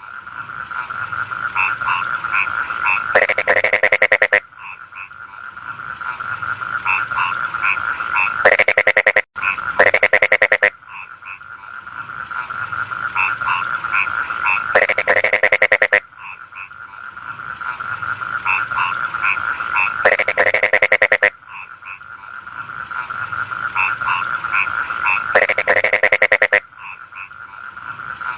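Rice-field frog chorus: a steady trilling hum under loud bouts of rapid, pulsed croaking, each about a second long, coming roughly every five seconds, with short chirping notes in between.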